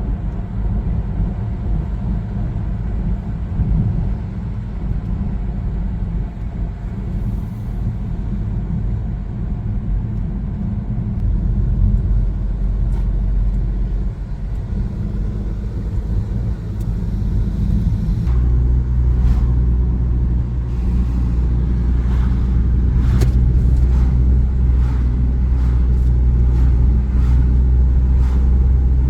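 A car driving, with a steady low rumble of road and engine noise. About two-thirds of the way through the rumble gets louder, and a run of short sharp clicks or knocks comes in.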